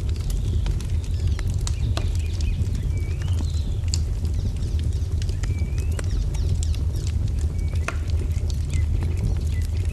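Wood fire crackling, with irregular sharp pops over a steady low rumble. Small birds chirp in short, repeated up-and-down calls.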